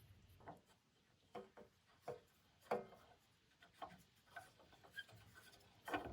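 Faint, scattered light knocks and scrapes of parts and tools being handled while fitting an exhaust pipe and heat shield, the clearest about three seconds in.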